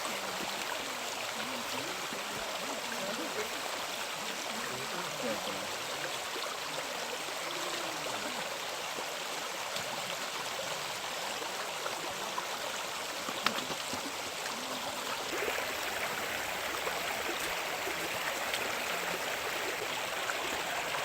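A clear creek running over rocks at a small waterfall, a steady rush of water. Faint voices are heard in the first few seconds, and there is a single click about two-thirds of the way through.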